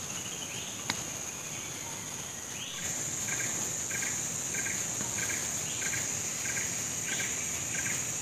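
Rainforest insects droning steadily at a high pitch, growing louder about three seconds in. Over the drone, a short call repeats roughly every 0.7 seconds, and there is a single click about a second in.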